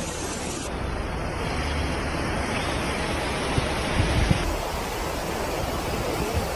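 Steady rushing noise of a heavy downpour and flowing floodwater, with a few short knocks about four seconds in. The sound shifts abruptly twice as one clip cuts to the next.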